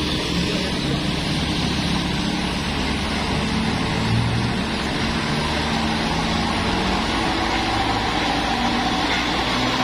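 Motor vehicle engines running steadily, with a constant rush of road noise.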